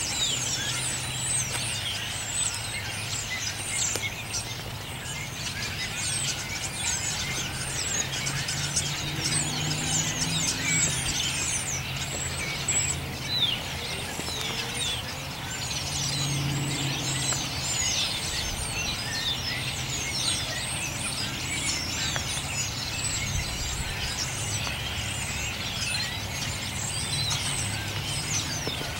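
A large gathering of birds chirping at once: a dense, unbroken chorus of short, high, falling chirps overlapping one another. A low hum runs underneath.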